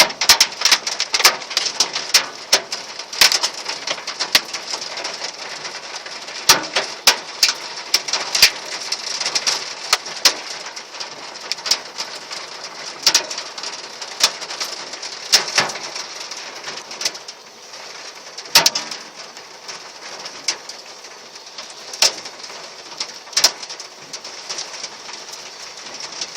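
Hail falling: irregular sharp cracks of hailstones striking a hard surface, several a second, over a steady hiss of falling ice and rain.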